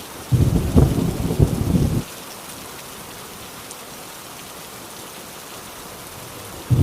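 Steady heavy rain, with a loud crackling rumble of thunder that starts suddenly about a third of a second in and cuts off abruptly about two seconds in. Another thunder rumble begins right at the end.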